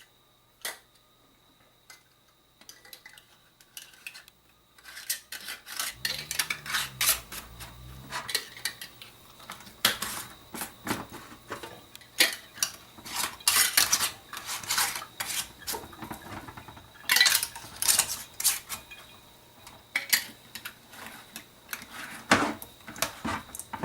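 Glass jars and metal lids clinking and clattering together. A few single clicks come first, then a busy run of clinks and knocks starts about five seconds in.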